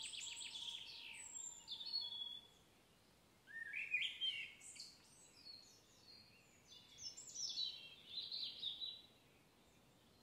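A songbird singing three short phrases of high, quickly changing notes a few seconds apart, over faint outdoor background noise.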